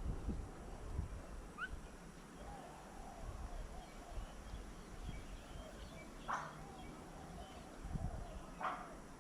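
Birds calling at a feeding table: a few short rising chirps, a run of low wavering notes through the middle, and two short, harsh calls near the end.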